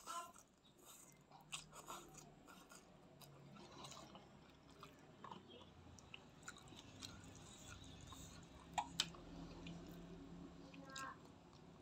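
Close-miked chewing of instant fried noodles, with soft wet mouth clicks, after a noodle slurp at the start. Two sharp clicks about three-quarters of the way through are the loudest sounds.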